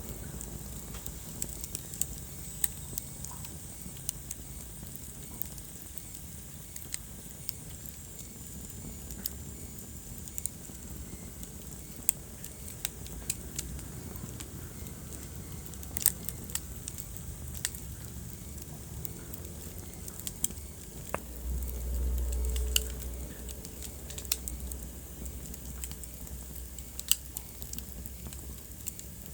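Wood fire burning in a fireplace: irregular sharp crackles and pops over a steady low rumble of flame, which swells briefly about two-thirds of the way through. A faint thin high whistle runs through the first third.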